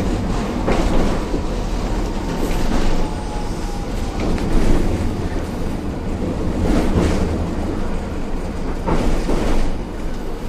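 Running sound of a Hiroden 1000-series 'Green Mover LEX' low-floor tram with Toyo IGBT inverter drive, heard from inside the car: a steady rumble and rattle of wheels on the track, with a sharp clack every second or two and a faint steady whine in the first few seconds.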